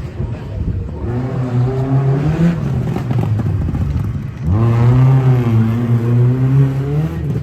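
Drift car's engine revving hard in two pulls: one from about a second in, then a louder, longer one from about halfway, held at high revs until just before the end.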